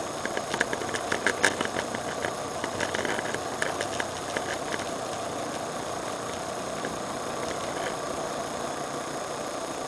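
Steady running noise of a car as heard by its dashcam, with a quick flurry of sharp, irregular clicks and knocks over the first few seconds.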